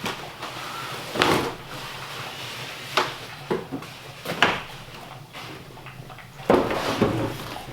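Irregular knocks and handling clatter: about half a dozen separate sharp thuds, spaced a second or more apart.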